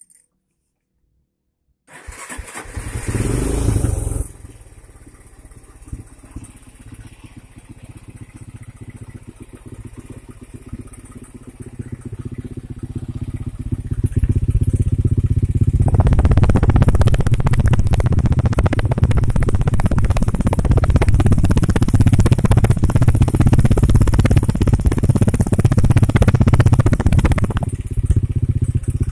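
Honda Tiger Revo's single-cylinder four-stroke engine, breathing through a homemade gutted exhaust, starts about two seconds in with a short burst of revs and settles to idle. It then climbs and is held at high revs for about twelve seconds, with a deep bass blare, before dropping back near the end.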